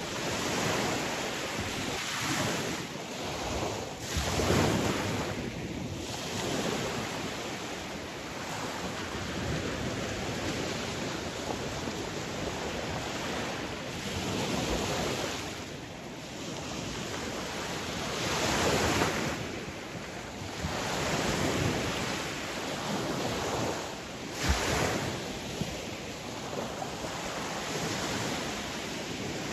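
Sea waves breaking and washing on a shore in a steady rush, swelling every few seconds as a wave comes in, with wind on the microphone.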